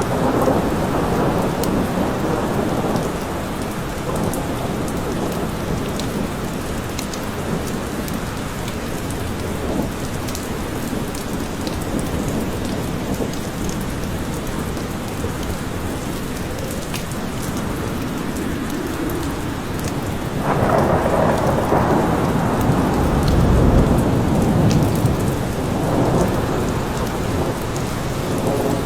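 Steady rain falling in a forest, with close drops ticking, and thunder rolling: a rumble fading over the first few seconds and a louder roll of thunder starting about two-thirds through and dying away over several seconds.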